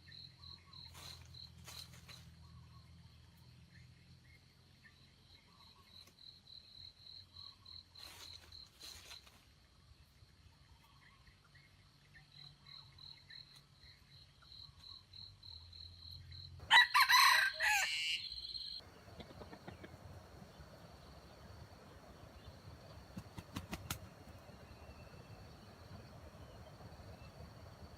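A rooster crows once, a single call of about two seconds some seventeen seconds in, over a steady, rapidly pulsing high trill of insects.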